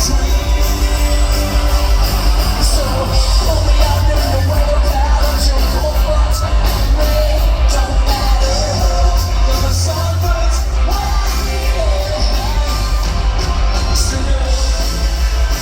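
Rock band playing live, loud, with a sung melody over heavy bass and steady drums, heard from the audience in a large hall.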